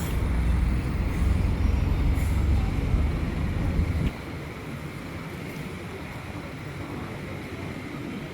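Wind buffeting the microphone in a low, uneven rumble that cuts off suddenly about four seconds in, leaving a fainter steady outdoor background.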